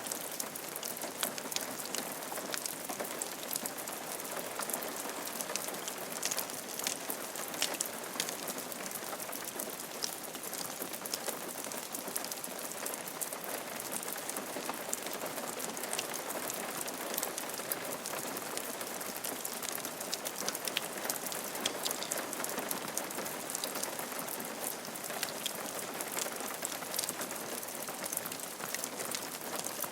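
Steady rain falling on a roof, a constant hiss of rainfall with many small individual drops ticking through it.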